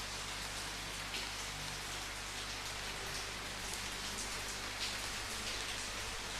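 Steady rain falling, an even hiss of rain with the patter of individual drops.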